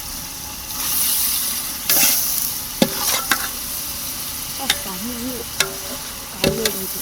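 Food frying in a pot for biryani, with a burst of loud sizzling about a second in. It is followed by a spoon stirring and knocking against the pot several times over a steady sizzle.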